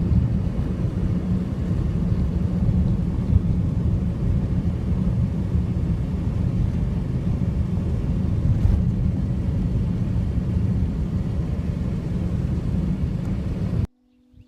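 Car driving: a steady low rumble of road and engine noise that cuts off abruptly near the end.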